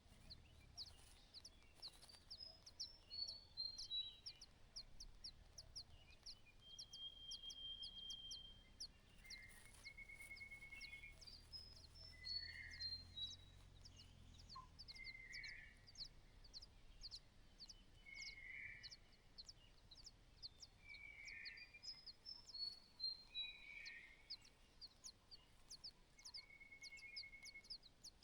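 Faint bird calls: a rapid, steady series of short high chirps several times a second, with descending trills and harsher buzzy calls at intervals.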